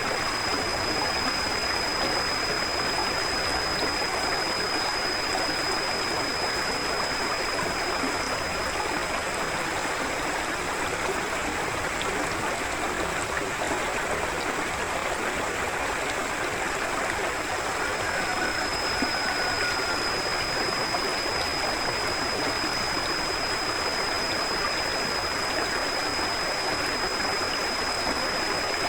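Forest river flowing steadily: an even rush and gurgle of running water, with a thin steady high tone above it.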